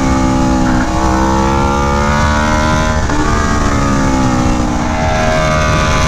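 Aprilia Tuono V4 1100 Factory's V4 engine through an SC Project CR-T exhaust, pulling hard with its pitch climbing, broken twice by brief gear changes about one and three seconds in.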